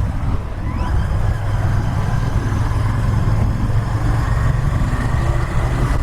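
Royal Enfield Interceptor 650's parallel-twin engine and exhaust running steadily while riding at highway speed.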